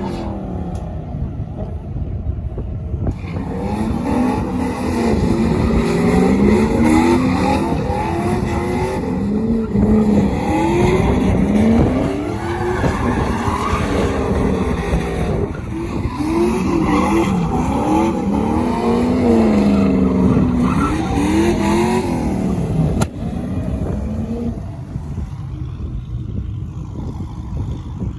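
Vehicle engines revving hard again and again, the pitch sweeping up and down, over a heavy low rumble. About three quarters of the way through, a sharp click is followed by a quieter stretch.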